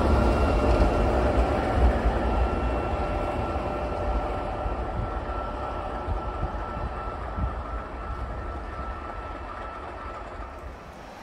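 MLW diesel locomotives running, their low engine rumble and a steady high tone fading gradually as they move away.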